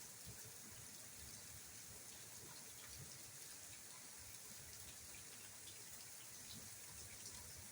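Faint steady rain falling, with scattered small drip ticks; no thunder.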